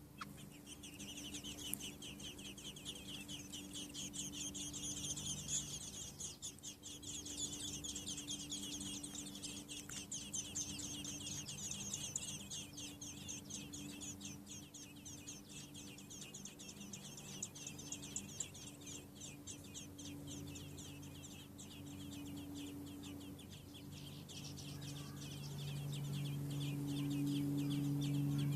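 Nestling American robins begging, a long run of rapid, high-pitched peeps that thins out near the end. Under the peeps is a steady low hum that grows louder over the last few seconds.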